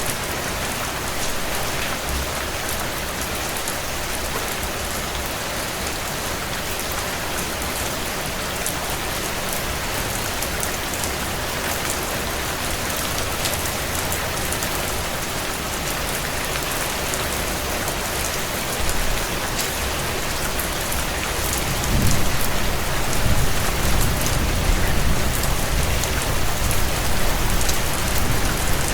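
Heavy rain pattering steadily on window glass, with the small scattered snaps of a wood fire crackling in a fireplace. Near the end, a low rumble swells up under the rain.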